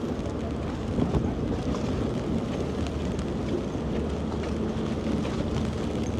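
A steady low engine rumble under a constant outdoor noise, with wind buffeting the microphone.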